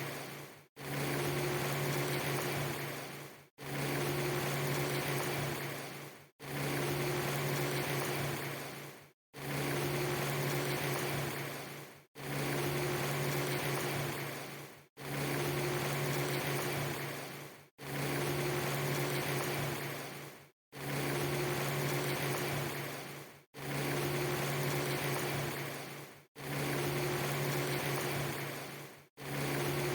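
A steady low hum over a hiss, cut into pieces about three seconds long. Each piece fades out into a brief gap of silence, so the same short stretch repeats over and over like a short loop.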